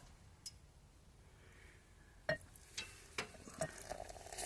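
A few faint, sharp clicks and taps over a quiet background, about five in all, most of them in the second half.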